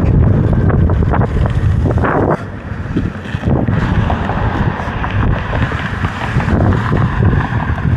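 Loud wind noise buffeting the microphone while riding an electric dirt bike at speed, dipping briefly about two and a half seconds in.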